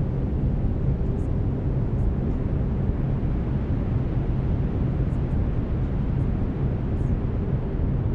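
Brown noise: a steady, deep rushing hiss. Faint steady binaural-beat tones hum beneath it.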